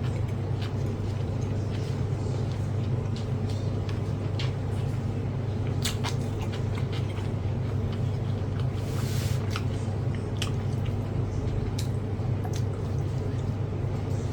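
Eating sounds: scattered small clicks and taps of chewing and handling food, with a short rustle about nine seconds in, over a steady low hum.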